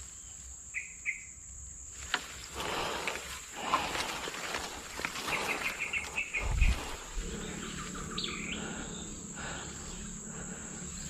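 Outdoor ambience of birds and insects: a steady high insect buzz, two short bird chirps about a second in, and a quick run of chirped notes midway. A dull low thump follows just after the run of notes.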